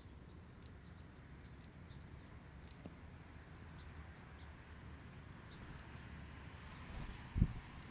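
Faint, scattered high chip notes and short chirps from birds feeding at a ground dish, two of them quick falling notes. A single low thump comes near the end.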